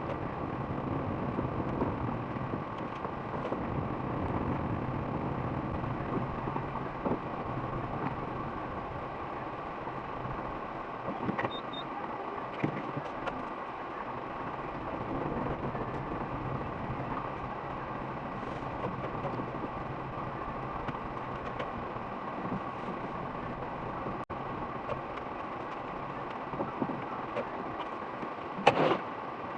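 A vehicle running steadily, with scattered small knocks and one loud, brief clunk near the end.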